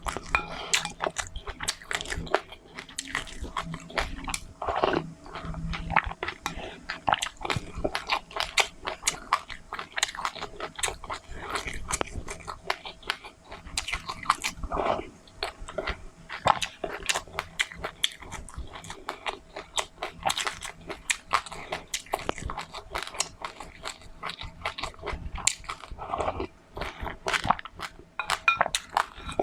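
Close-miked chewing and crunching of seeds, a rapid, continuous crackle of small crisp bites.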